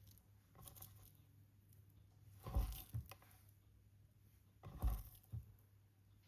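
A couple of dull thumps from kitchen work, each followed by a softer knock, over a low steady hum.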